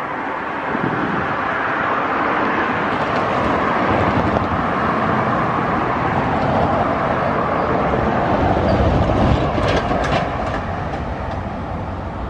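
Train rolling past, the wheels of its cars running on the track in a steady rumble, with a few sharp clacks about ten seconds in.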